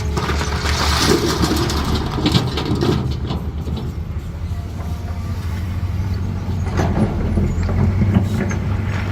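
CAT 320D excavator's diesel engine running steadily under load, with scattered knocks and clatter of stone, thicker in the first few seconds and again near the end.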